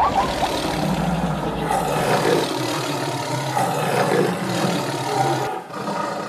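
Stampede sound-effect mix: animal roars, most like a big cat's, over a dense rumbling din, thinning out near the end.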